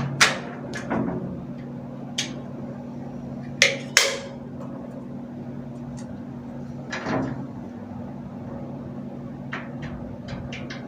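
Sharp clicks and knocks of hardware being handled while the sliding glass shower door and its rollers are worked on, over a steady low hum. There are several loud knocks in the first four seconds and lighter ticks near the end.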